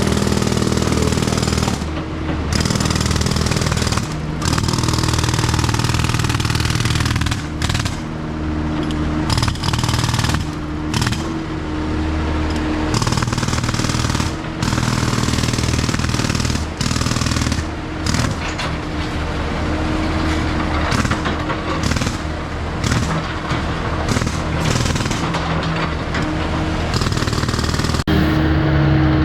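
Jackhammer hammering on concrete in rapid continuous blows, with a machine engine running underneath.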